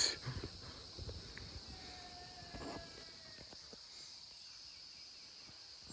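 Steady, faint chorus of insects, with a few faint knocks underneath.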